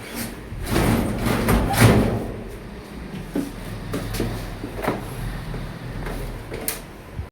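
Scraping and knocking from handling a window air conditioner during fitting: a long scrape about a second in, then several sharp knocks and clicks.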